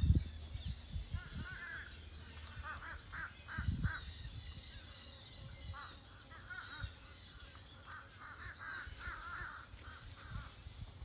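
Chickens clucking in runs of short, repeated notes, with a brief series of high chirps near the middle. A few low thumps come at the start and again near four seconds.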